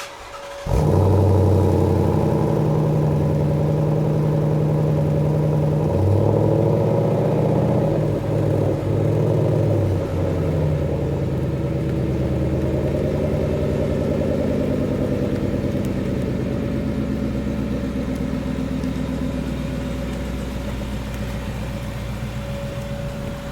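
2015 Mustang GT's 5.0 L V8 through an MBRP Race 3-inch exhaust with H-pipe starting up about a second in, then idling high and stepping down in a few stages to a steady, lower idle.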